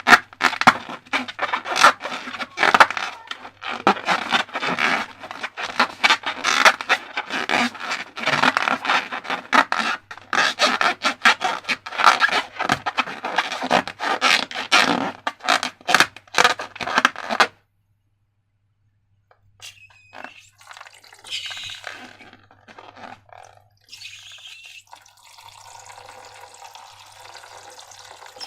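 Slime being squished and worked by hand, a dense run of sticky, wet crackling and clicking that cuts off abruptly about two-thirds of the way through. After a short silence come quieter handling sounds, then a steady hiss near the end.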